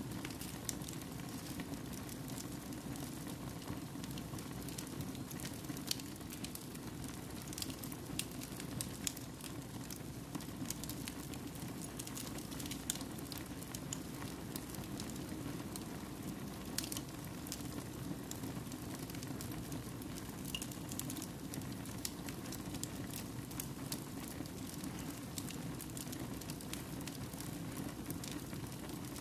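Wood fire burning in a fireplace: a steady low rush of flame with many sharp crackles and pops scattered irregularly throughout.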